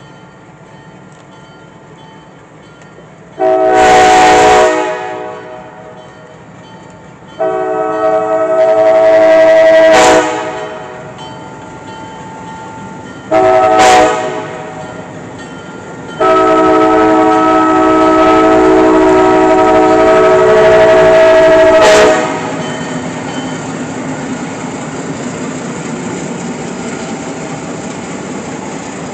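Air horn of an Alco C420 diesel locomotive sounding the grade-crossing signal: four blasts, long, long, short, then one long blast of about six seconds, a chord of several notes. Then the locomotive's diesel engine runs with a steady low rumble.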